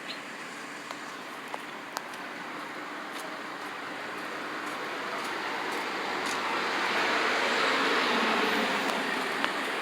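Road traffic: a vehicle passing, its noise swelling to a peak about seven to nine seconds in and easing slightly after, over a steady background hum.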